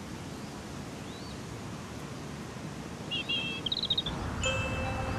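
Steady outdoor background noise with a few faint bird chirps and a short trilled bird call about three seconds in. Soft music with held notes comes in near the end.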